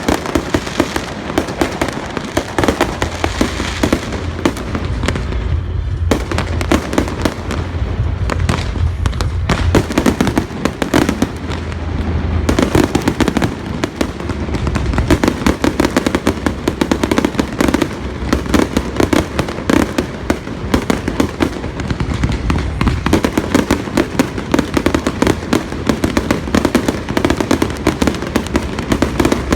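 Aerial fireworks display: a dense, unbroken run of bangs, pops and crackles from many shells bursting in rapid succession, thinning briefly about six seconds in.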